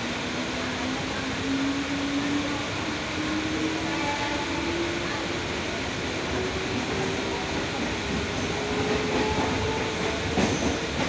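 Electric local train (EMU) heard from inside the coach as it pulls out of a station: its traction motor whine rises steadily in pitch as it gathers speed, over the rumble of the wheels, with a sharp clack of the wheels near the end.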